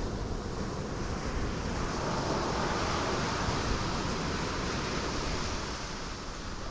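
Ocean waves breaking on rocks: a continuous rushing wash of surf that swells about two seconds in and eases off near the end.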